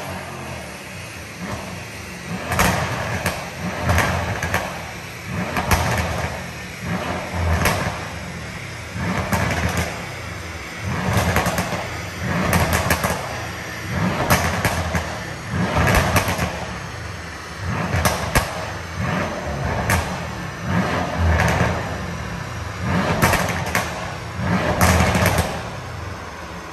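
Mercedes-AMG C63 S coupé's 4.0-litre twin-turbo V8 revved again and again on a chassis dyno: about a dozen surges in quick succession, roughly every one and a half to two seconds, each with sharp pops from the exhaust, over the engine running between them.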